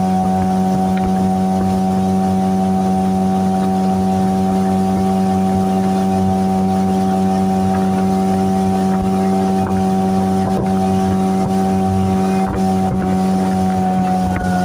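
Electric trolling motor of a small fishing boat running steadily under way: a constant hum with a higher whine above it, unchanging in pitch.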